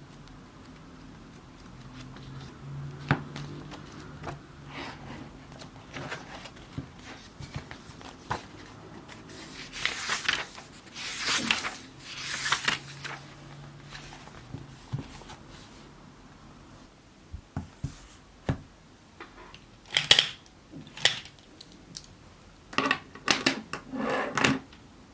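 Scissors snipping and paper being handled: scattered small clicks and rustles, with a run of longer rustling strokes around the middle and more clusters of snips near the end.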